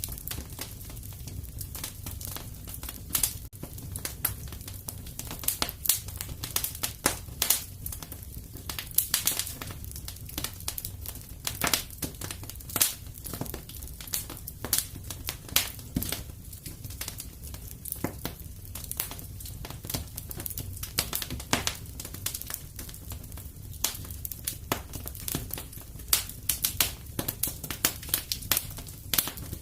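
Fire crackling in a fireplace, with irregular sharp snaps and pops over a low steady rumble.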